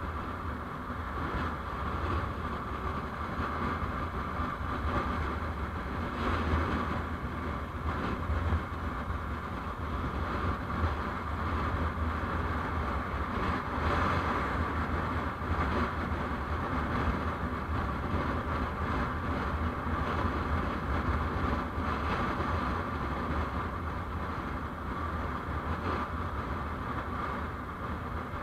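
Steady driving noise heard from on board a moving vehicle: a low rumble with road and wind hiss.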